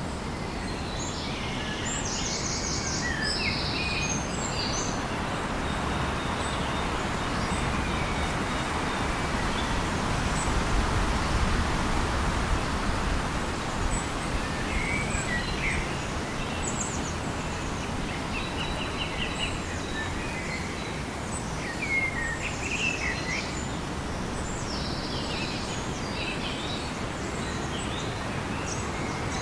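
Forest ambience: many birds chirping and trilling in short calls over a steady background hiss.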